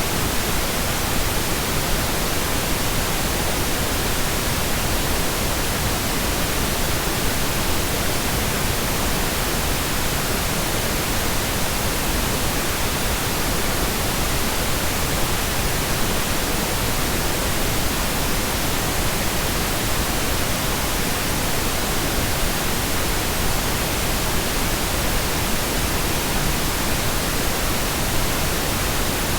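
Pure pink noise: a steady, even hiss spread across the whole range, without change or breaks.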